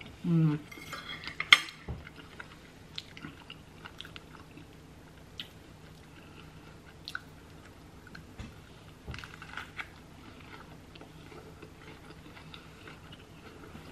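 Close-up chewing of a mouthful of chili cheese fries, with wet mouth clicks and smacks. A short hummed "mm" comes near the start, and a sharp click about a second and a half in is the loudest sound.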